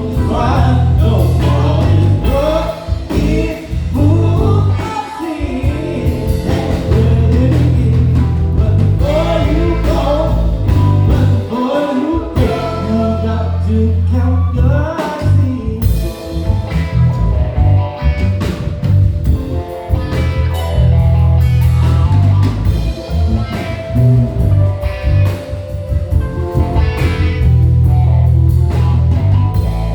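Live band playing a blues-rock song: a heavy bass line and drum kit with keys under a lead melody that bends in pitch, most busy in the first half.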